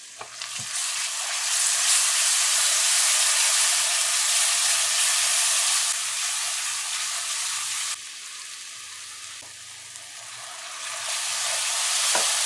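Curry paste of ground pepper and garlic with curry powder sizzling in hot oil with frying onions in a karahi as it is stirred with a spatula. The sizzle flares up about half a second in, eases a little after the middle, and builds again near the end.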